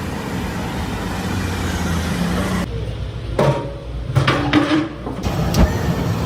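Low, steady rumble of road traffic with a vehicle engine running, broken by a few sharp knocks and clatters in the second half.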